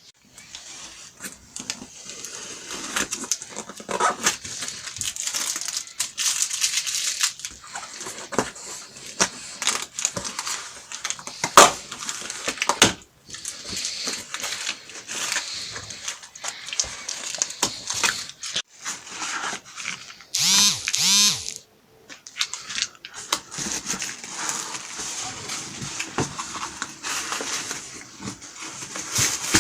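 Cardboard box being opened by hand: tape tearing, flaps and packing scraping and crackling in irregular bursts, with a brief squeak about twenty seconds in.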